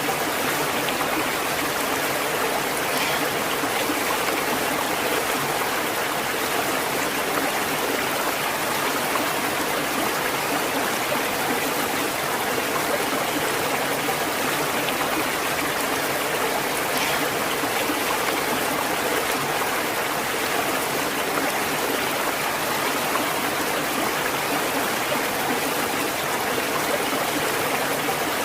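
Stream water flowing over rocks, a steady, even rush with some gurgling and trickling.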